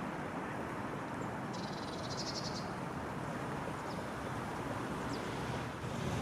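A small songbird gives one rapid, high trill lasting about a second, with a few faint short chirps around it, over a steady background hiss.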